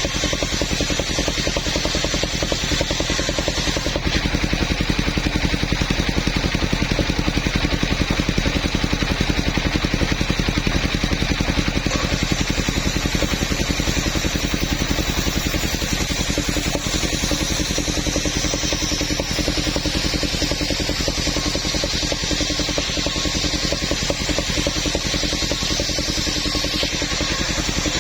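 Engine of a mobile sawmill running steadily, with a fast, even firing pulse throughout.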